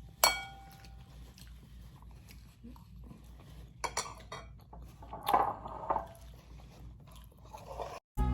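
Tableware clinking as a meal ends: one sharp ringing clink of a dish or utensil just after the start, then a few faint taps and scrapes of cutlery and dishes.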